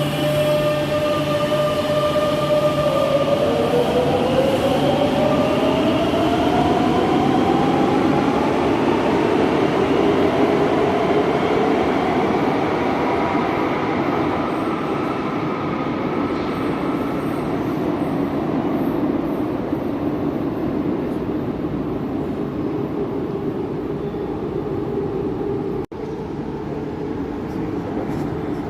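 Madrid Metro train's electric traction motors whining, the pitch rising steadily over the first several seconds as the train accelerates, over loud wheel and rail running noise. The sound drops out abruptly for an instant near the end.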